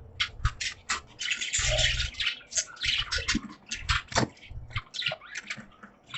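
Pet budgies chattering: a fast, irregular run of short scratchy chirps and clicks, with a denser burst of warbling about a second in.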